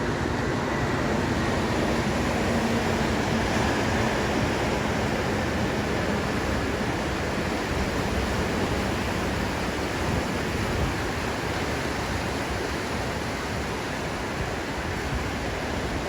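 Ocean surf breaking: a steady, unbroken wash of noise with no distinct single waves standing out. A faint hum fades out in the first few seconds.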